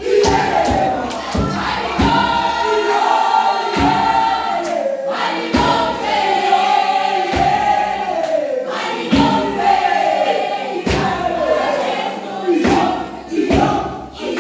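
Gospel song with choir vocals over a steady beat, a strong drum stroke about every two seconds.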